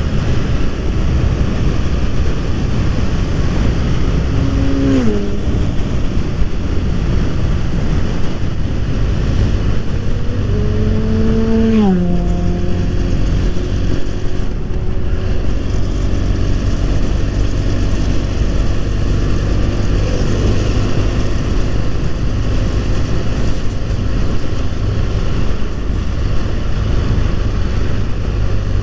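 BMW F 800 R's parallel-twin engine running at road speed under a heavy rush of wind on the microphone. The engine note drops sharply twice, about five and about twelve seconds in, and again more faintly near twenty seconds.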